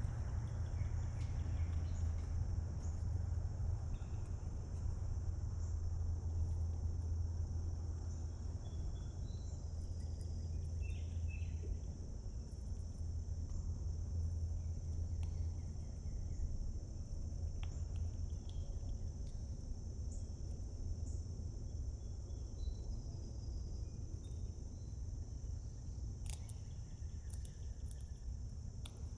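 Steady high-pitched chorus of insects, crickets or similar, over a continuous low rumble, with a few faint short bird chirps here and there.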